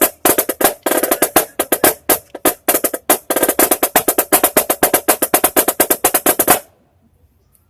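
Marching snare drum played in fast, even single strokes, about eight a second, stopping abruptly about six and a half seconds in.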